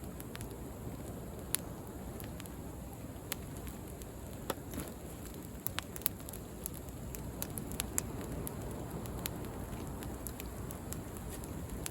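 Wood bonfire crackling, with sharp pops scattered irregularly through it, over the steady low rush of sea waves.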